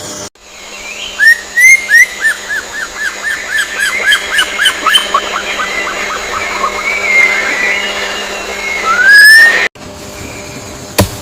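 A bird singing a rapid series of short falling whistled notes, about four a second, that drift lower in pitch as the series goes on, followed by a long rising whistle near the end. The sound cuts off abruptly about a second and a half before the end.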